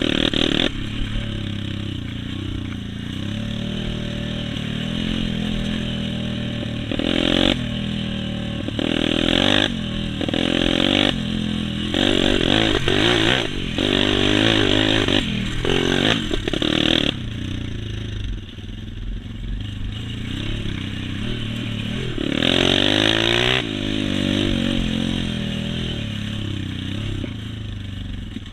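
Motocross dirt-bike engines revving up and down on a track, the pitch rising and falling over and over with short loud bursts of throttle and a quieter lull about two-thirds of the way through.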